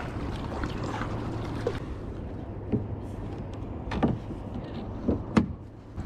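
Kayak out on the water: a steady wash of water and paddling noise, with a few sharp knocks, the loudest about four seconds in and again about five and a half seconds in.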